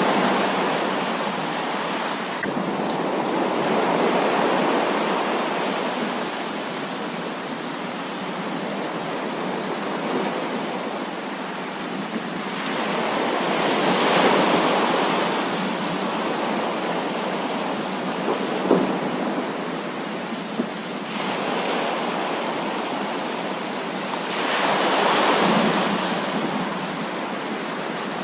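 Heavy rain pouring steadily as an even hiss, with rolls of thunder swelling and fading over a few seconds: at the start, around 4 seconds in, around 14 seconds in and around 25 seconds in. A couple of sharp drip ticks come near the close.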